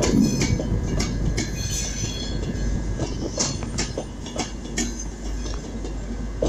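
Virgin Class 390 Pendolino electric train departing slowly past the platform, its wheels clicking irregularly over rail joints and pointwork, about twice a second, over a steady low rumble.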